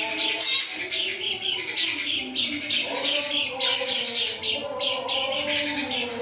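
Kecial kuning, a Lombok white-eye, singing a fast, high twittering song in repeated runs, with lower wavering notes underneath.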